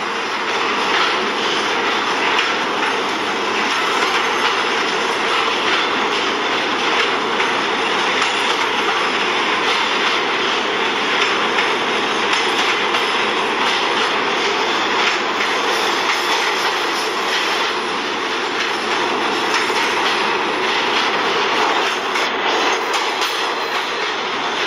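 Steady noise of a train running on rails, a continuous rumble and rattle of wheels with no clear start or stop.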